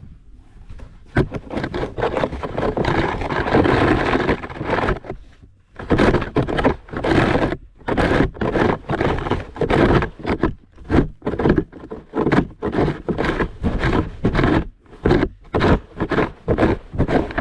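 Snow shovel scraping along a snowy driveway for about four seconds. Then comes a quick run of short crunching strokes, about two a second.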